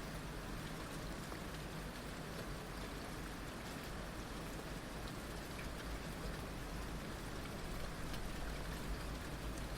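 Heavy rain falling steadily, a dense even hiss of drops with fine individual drop ticks on hard surfaces.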